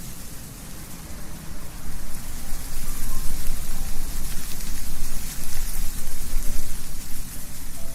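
Wind gusting through trees, leaves rustling, with a low rumble beneath; it swells stronger about two seconds in.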